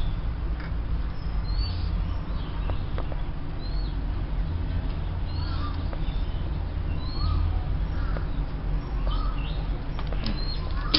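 Small birds chirping repeatedly, short quick up-and-down calls about once a second, over a steady low rumble.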